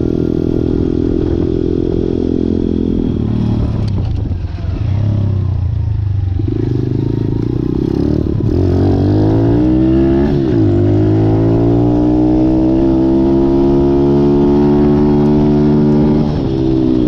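Malcor XZ1 125cc pit bike's four-stroke single-cylinder engine running at steady revs, then easing off about three seconds in. From about eight seconds in its pitch climbs steadily as it pulls, with a brief dip near ten seconds, and the revs drop again near the end.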